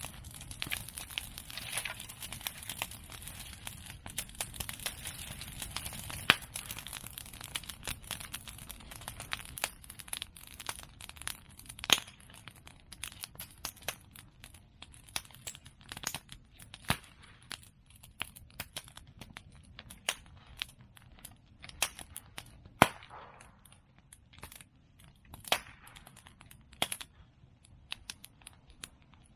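Open bonfire of cut bamboo and chestnut prunings crackling and popping. A dense crackle over a hiss thins after about eight seconds to scattered sharp pops, with the loudest cracks about twelve and twenty-three seconds in.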